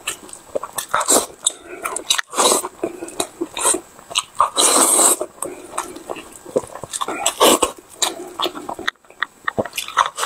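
Close-miked chewing of fatty pork skin, with wet lip-smacking and mouth sounds at irregular intervals. There is a short pause about nine seconds in before he takes the next bite.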